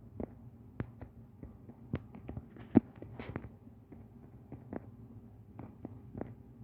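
A run of sharp, irregularly spaced clicks and taps over a low steady hum, with one louder knock about three seconds in.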